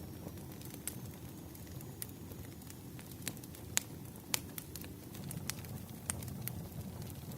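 Wood fire crackling: scattered sharp pops and snaps over a steady low rush, with a couple of louder pops about four seconds in.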